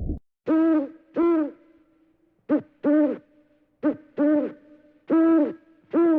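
A bird hooting: about eight hollow notes, each rising and falling in pitch. A shorter note twice leads into a longer one, and each note leaves a short echo.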